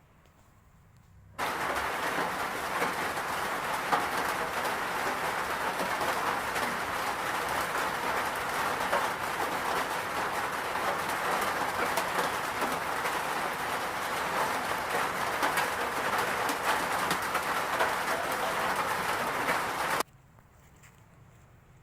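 Nissan March engine making the odd noise under examination: a dense, steady hiss laced with fast fine ticking, cutting in abruptly about a second in and stopping abruptly near the end.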